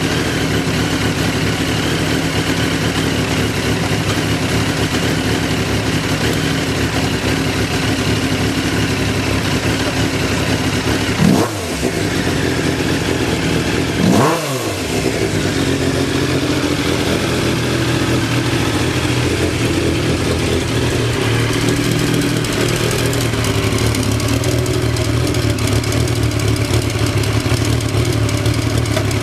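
Triumph motorcycle engine idling steadily, blipped twice in quick rising-and-falling revs about a third of the way in, then settling back to a stable idle.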